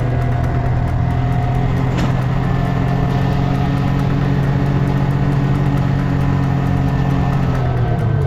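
Honda Grom's small single-cylinder engine running at a steady engine speed while riding, its pitch dipping briefly near the end.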